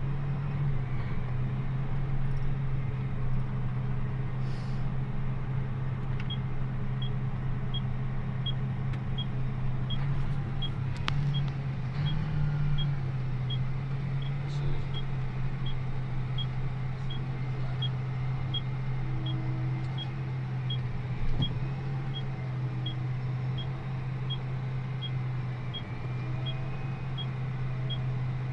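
A John Deere 8400R tractor's six-cylinder diesel engine running with a steady low drone while under way. From about six seconds in, a faint, regular tick sounds about twice a second.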